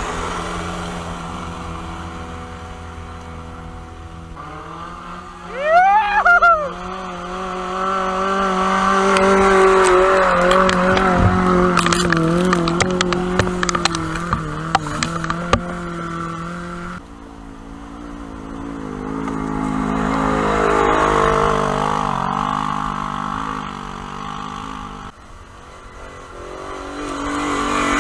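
Off-road Jeep engines running and revving on a trail, the pitch rising and falling as they work. About six seconds in there is a brief, loud squeal that glides up and down, and the sound changes abruptly twice where the footage is cut.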